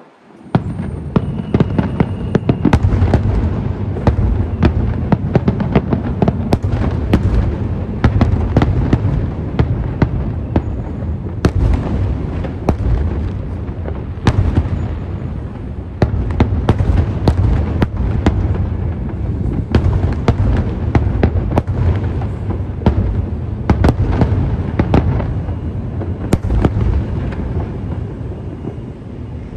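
Aerial fireworks display at full barrage: a dense, continuous stream of booming shell bursts mixed with many sharp cracks and crackles, with no let-up after a momentary gap at the very start.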